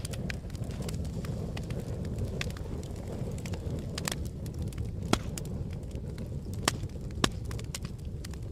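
Campfire burning: a steady low rumble of flames with frequent sharp crackles and pops of burning wood, a few louder snaps among them.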